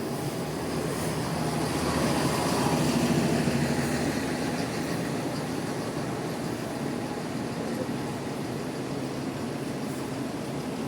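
Bus engine running, with a low steady hum that grows louder about two seconds in and then eases off.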